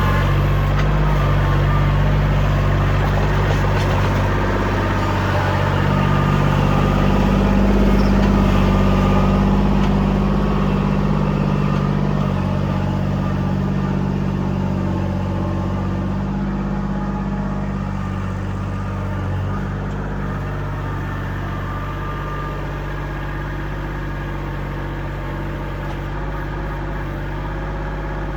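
Kubota L2501 compact tractor's diesel engine running steadily, rising a little in loudness for a few seconds and then easing back.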